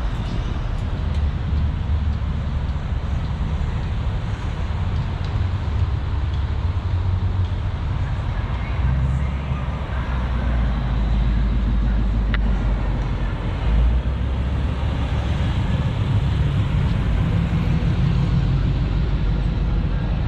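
Car engines running, a steady low rumble.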